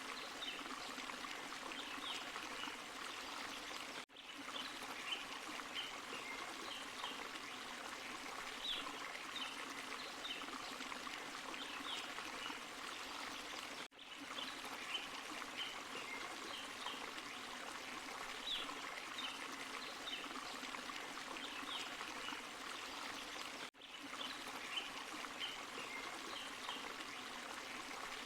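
Small forest waterfall and stream running in a steady rush, with scattered short high chirps over the water. The sound drops out for a split second three times, about ten seconds apart.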